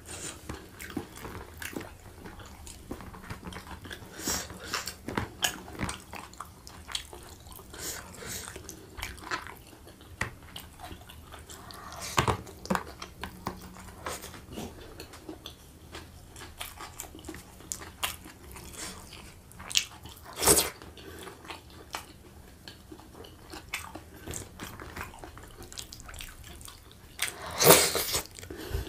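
A man's mouth chewing and biting food eaten by hand, rice and chicken rendang, with many short wet clicks. Louder bites come a few times, the loudest near the end as he bites into a piece of chicken held in his fingers.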